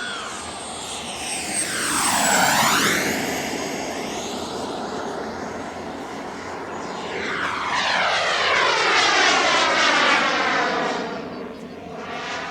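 Turbine-powered RC model jet flying past twice: the turbine's high whine swells, drops in pitch as it passes, and fades, once about two seconds in and again in the second half.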